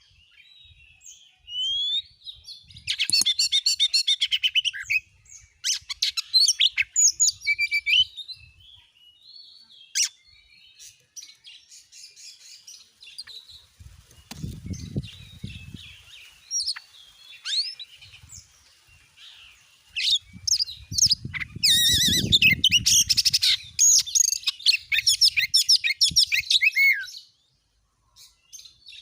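Oriental magpie-robin (kacer) singing: fast, varied runs of chirps, trills and whistles in bursts separated by pauses, with a long busy run in the last third that stops shortly before the end.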